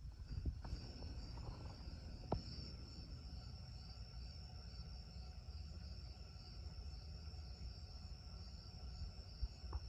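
Hampton Bay Huntington II ceiling fan running steadily at medium speed: a faint, evenly pulsing high whine over a low rumble. A few light clicks come in the first couple of seconds.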